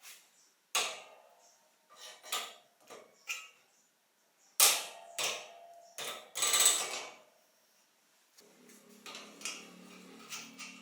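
Hand work on bicycle parts, most likely the cassette: a string of sharp metal clicks and knocks with short creaking scrapes, the loudest group about halfway through. Near the end a faint steady low hum sets in.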